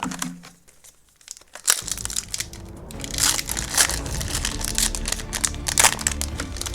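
Crinkling and tearing of a foil trading-card booster pack wrapper being handled and ripped open from the top, a dense irregular crackle that starts about two seconds in.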